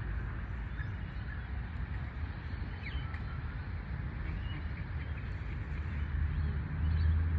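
Outdoor background of a steady low rumble, strongest about six seconds in, with a few faint, brief bird calls over it.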